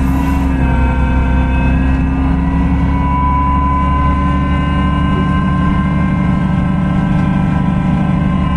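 Cummins ISB6.7 six-cylinder diesel engine of a Solaris Urbino 18 hybrid articulated bus running steadily: a loud low drone with a steady whine over it that grows stronger a few seconds in.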